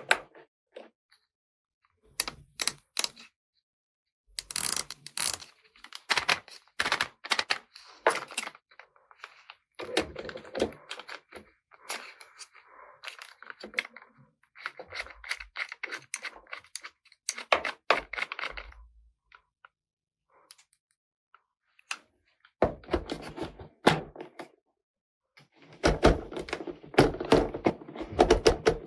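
Small plastic toy pieces being handled: bursts of sharp clicks, taps and light knocks, with a few rattling, rustling stretches and short silent pauses between them.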